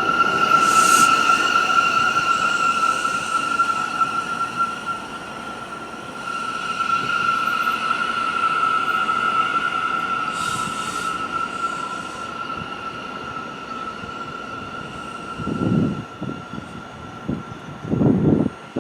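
New York City subway train's wheels squealing on the rails, a steady high-pitched squeal that weakens in the second half. A few low thuds come near the end.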